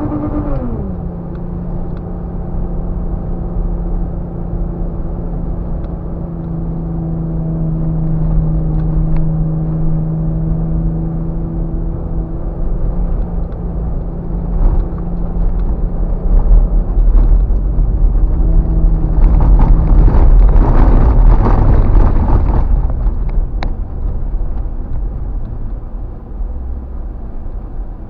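Off-road 4x4's engine running while driving through desert sand: the pitch drops sharply right at the start, then holds a steady drone under a constant low rumble. About two-thirds of the way in, a loud rushing noise swells for a few seconds, then fades.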